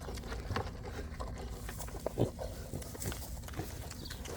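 Mini pig eating up close, with low grunts and chewing noises in short scattered bursts, the loudest about two seconds in.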